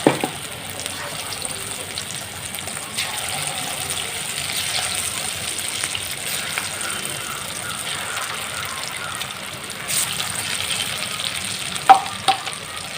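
Gram-flour-battered chicken pieces sizzling steadily as they deep-fry in hot oil. A sharp knock comes right at the start, and two more short knocks come near the end.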